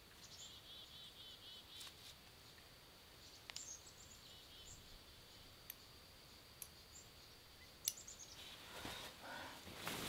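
Quiet outdoor ambience with small birds calling: two runs of quick repeated chirps and a few scattered higher single notes. A few sharp clicks, the loudest about eight seconds in, then rustling near the end.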